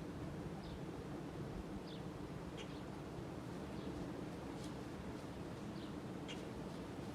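Hampton Bay Palm Beach ceiling fan running on high speed, a steady low whir, with short high bird chirps about once a second.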